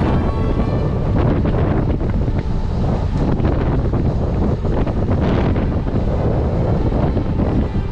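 Heavy wind buffeting the microphone: a loud, steady rumbling noise with no clear pitch.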